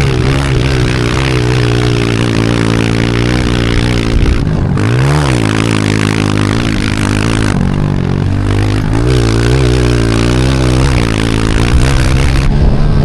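Pit bike engine being ridden hard, its pitch rising and falling with the throttle. It drops off sharply and climbs again about five seconds in and again near the end, over a steady noisy rush.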